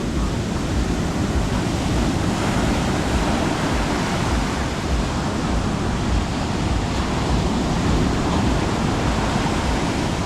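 Sea waves washing onto a beach: a steady, unbroken rush of surf.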